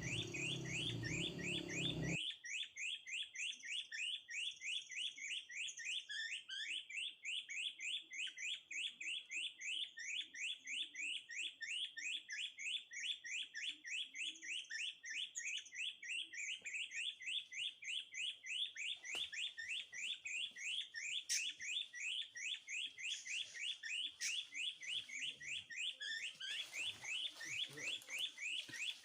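Bird calls: a fast, even run of short, high, rising chirps, about three a second, repeated without a break.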